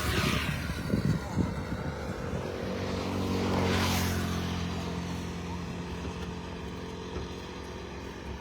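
Road traffic: a vehicle passes right at the start and another swells up and fades away about four seconds in, over a steady low engine hum.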